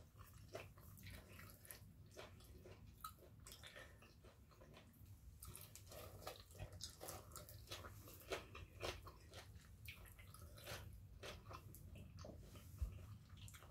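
Faint, close-up eating sounds: wet chewing, smacking and small mouth clicks, with a bite into a piece of boiled squid about six seconds in.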